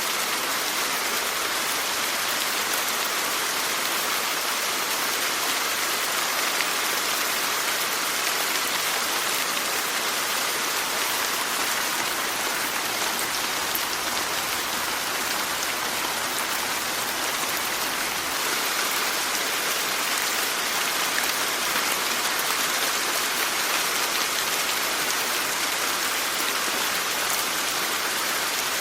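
Steady rain falling, an even hiss with faint patter of individual drops, strongest in the high range.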